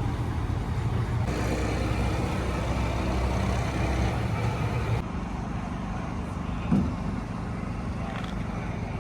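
Car engine running with a low, steady rumble. The sound changes abruptly about a second in and again about five seconds in, and a brief louder sound stands out near seven seconds.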